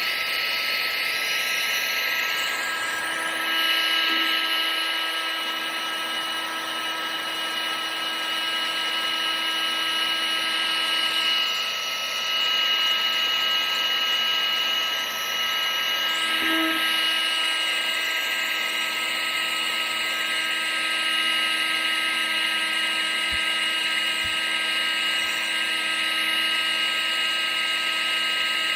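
Vacuum cleaner running steadily: a continuous motor whine with several steady tones over the rushing of air.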